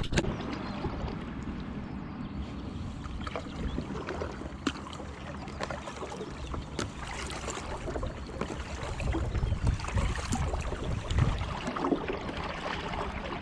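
Water splashing and lapping against a kayak as it is paddled across the loch, with wind rumbling on the microphone and scattered small splashes and knocks.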